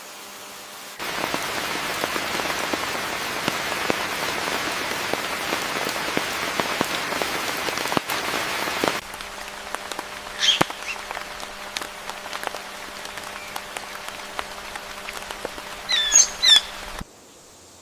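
Rain falling steadily, with many small drop clicks, that cuts off abruptly, then a quieter forest background with a faint steady hum, where a bird gives a short call and near the end a quick run of high chirps.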